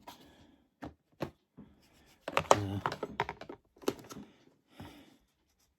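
Light clicks and taps of a tarantula enclosure and its hide being handled, with a brief murmured voice about halfway through.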